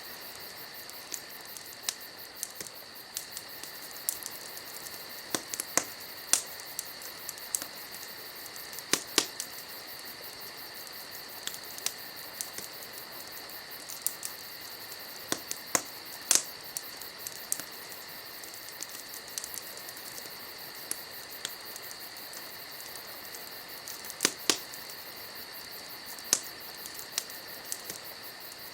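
Firewood burning in a fire pit, crackling with irregular sharp pops, a few of them loud. Under it runs the steady high trill of crickets.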